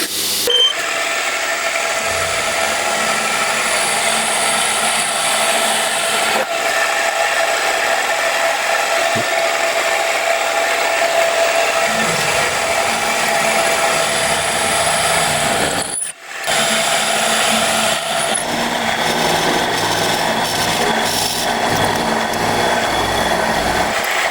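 A power tool running steadily under load in metalworking, with a brief break about sixteen seconds in.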